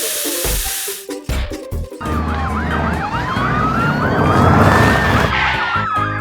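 A short burst of hiss and a few sharp knocks, then, from about two seconds in, emergency-vehicle sirens: a fast yelping siren over a slower rising-and-falling wail, with low music underneath.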